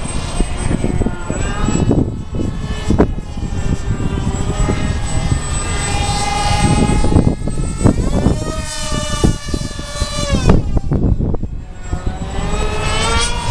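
Twin 2800KV brushless electric motors and pusher propellers of a Flite-Test Delta Wing RC plane whining in flight, their pitch rising and falling repeatedly as the throttle changes and the plane passes, over a low rumble.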